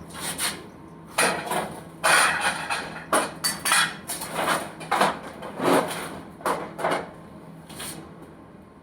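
Irregular scraping and clattering of hard objects handled during mouse cage cleaning: about a dozen short noisy strokes, some in quick pairs, dying away near the end.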